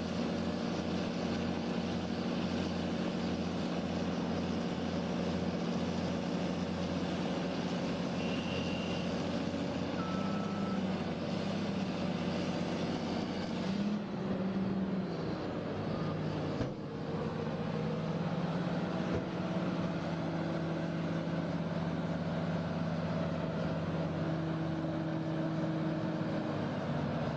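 Heavy machinery engines running steadily, with the engine sound changing abruptly about fourteen seconds in and again about seventeen seconds in.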